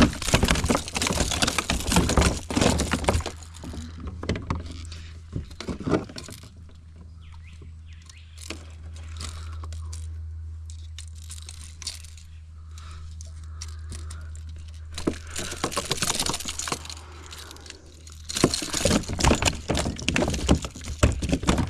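Metal fishing-lure treble hooks clinking and rattling, with handling noise, as hooks are worked out of a bass's mouth: a dense flurry of clicks for the first few seconds, a quieter stretch, then two more flurries near the end, over a steady low hum.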